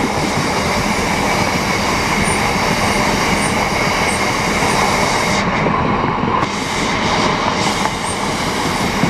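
Freight train hauled by Class 66 diesel locomotive 66006 passing at speed, its wagons running steadily over the rails.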